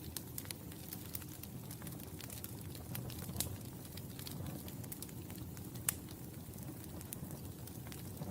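Wood fire burning in a fireplace, crackling with irregular sharp pops over a low steady rumble of flame; the loudest pops come a little past three seconds and just before six seconds.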